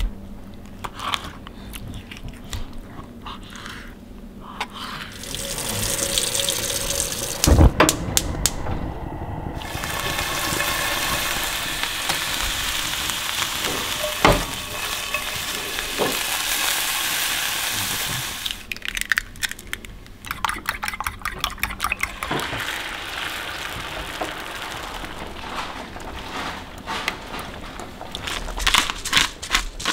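Chunks of frog-leg meat searing in a small nonstick skillet: a steady sizzle that lasts several seconds in the middle, with a couple of sharp knocks.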